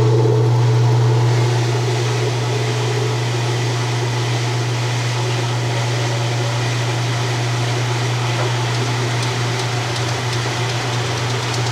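1993 Kenmore 80 Series top-load washer running in its neutral drain, motor and drain pump going with a steady low growl.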